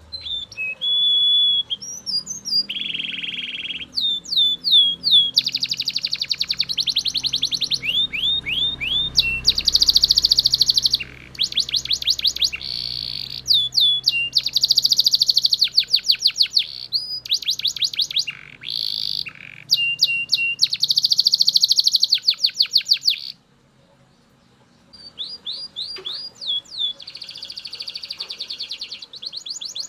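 Belgian canary singing loudly in phrases of fast trills and rolls of rapidly repeated notes, with falling whistled sweeps between them. About three quarters of the way through it stops for a second or two, then starts again.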